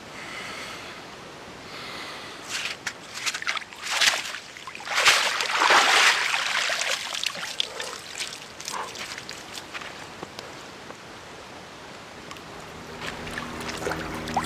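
Water splashing and sloshing, with a few sharp splashes about three to four seconds in and the loudest rush of water for a couple of seconds near the middle.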